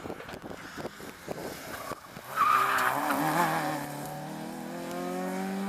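Rally car on a tarmac stage: its tyres squeal loudly as it corners, starting about halfway through, then its engine revs up as it accelerates away, the pitch climbing steadily.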